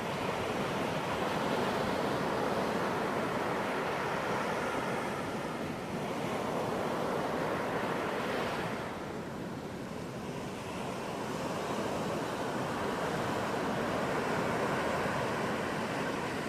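Ocean waves breaking and washing up a beach: a continuous rush of surf that eases off about halfway through and then builds again.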